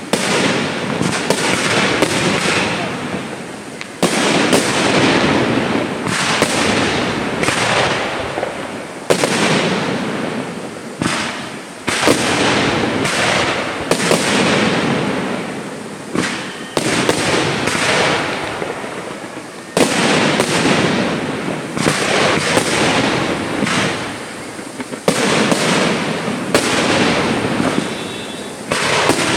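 Aerial firework shells bursting one after another, about one or two a second. Each is a sharp bang followed by a noisy tail that dies away over a second or two, and the bursts overlap into a continuous barrage.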